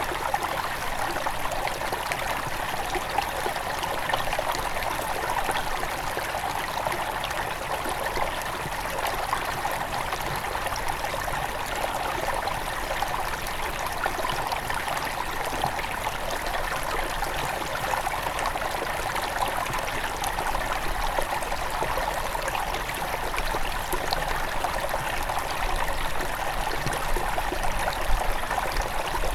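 Small forest river running over stones, a steady babble of flowing water with trickling.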